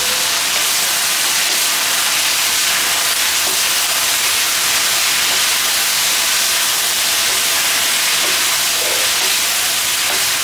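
Sweet and sour sauce sizzling with a steady hiss in a hot wok as battered chicken and vegetables are stir-fried with a wooden spatula, the sauce cooking down on high heat.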